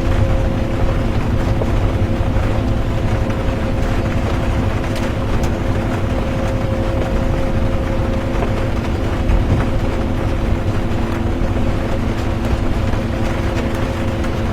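Bus cabin while driving: a steady low engine and road rumble with a constant hum over it, even throughout.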